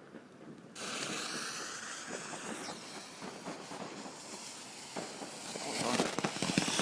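A 'mini dragon' ground firework catching and spraying with a steady hiss that starts suddenly under a second in, growing louder and crackling near the end.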